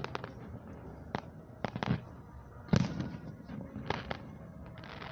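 Aerial firework shells bursting: a string of irregular, sharp bangs, the loudest a little under three seconds in.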